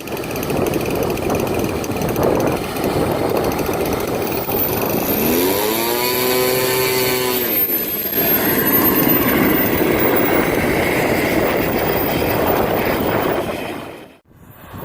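Radio-controlled model airplane motor heard over heavy wind noise on the microphone; about five seconds in, its pitch rises, holds for a second or two, then falls away.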